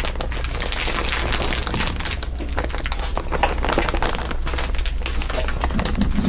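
Layered crinkling of crinkly material: dense, rapid crackles and clicks over a steady low hum.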